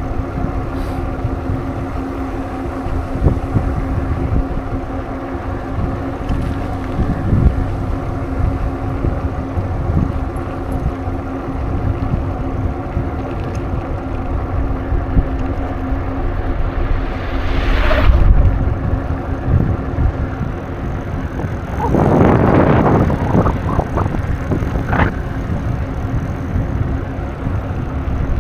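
Riding noise while cycling: wind on the microphone with a steady low drone. About three-quarters of the way in there is a louder, rough stretch lasting a few seconds.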